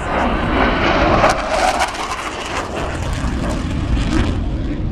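Panavia Tornado GR4 jet flying past with the roar of its RB199 turbofan engines. The roar is loudest in the first two seconds, then eases off as the jet moves away.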